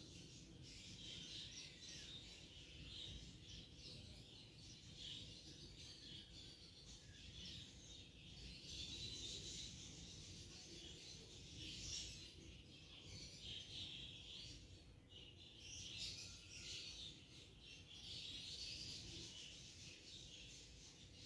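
Near silence with faint bird chirps in the background, coming and going.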